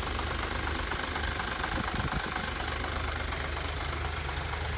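Truck engine idling steadily, with the air-conditioning fan running as a faint steady whine; the AC compressor is not engaging. A brief low rumble comes about two seconds in.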